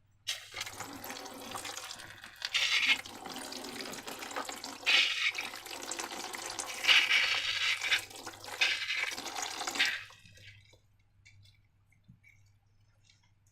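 Wet, liquid sound of slime being worked, sloshing and squelching for about ten seconds with several louder surges, then stopping.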